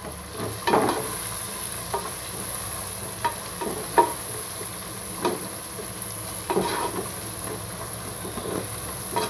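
Chopped onions and mint leaves sizzling in hot oil in a pot, stirred with a plastic spatula that scrapes and taps against the pot again and again over a steady frying hiss.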